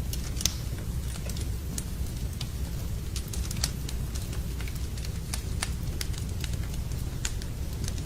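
Wood campfire crackling, with sharp irregular pops over a steady low rumble.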